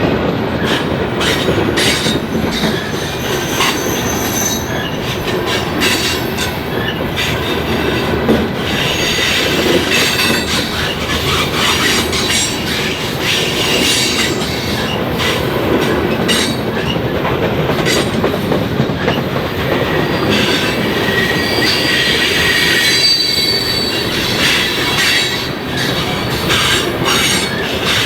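Railroad cars rolling steadily past, their wheels clicking over the rail joints, with brief high-pitched wheel squeals twice.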